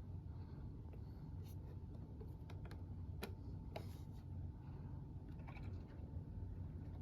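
HO-scale model diesel locomotive running along the track: a low steady hum with scattered light clicks, typical of small wheels passing over rail joints.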